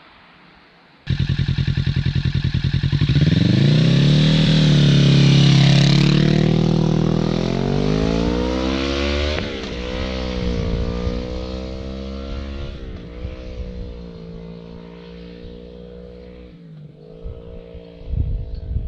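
Kawasaki Ninja 650's parallel-twin engine starts loud about a second in and accelerates hard, its note rising steadily. It then drops and climbs again at three gear upshifts.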